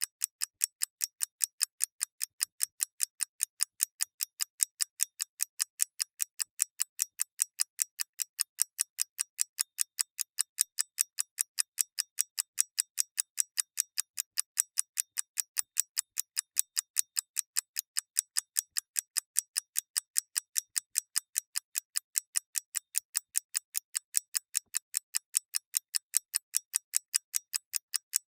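Clockwork mechanism ticking steadily: sharp, thin, high clicks at an even pace several times a second, with no low thud beneath them.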